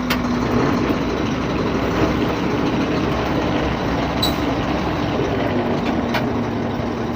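Heavy vehicle running with a steady noise and a faint hum, which the title puts down to a planetary hub reduction. A few light clicks come through.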